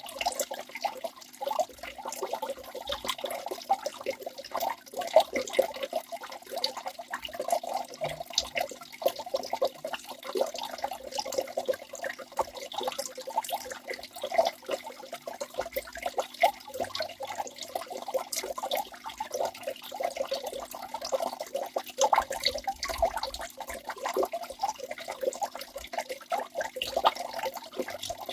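Water of a small waterfall splashing and gurgling continuously, with many small irregular splashes.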